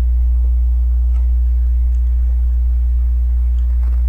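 Steady low electrical hum, with a few faint, sparse clicks of LEGO plastic pieces being handled.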